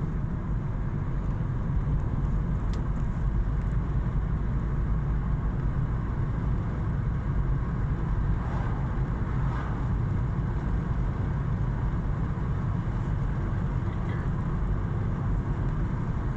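Car driving along a road: steady engine and tyre noise, heaviest in the low end.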